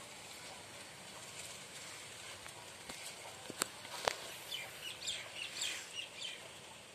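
Faint outdoor background with birds chirping, a quick run of short high chirps in the second half. Two sharp clicks, the loudest sounds, come about three and a half and four seconds in.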